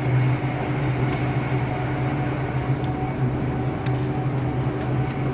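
Cabin noise of a GWR Class 800 train running at speed: a steady low hum with a few faint ticks.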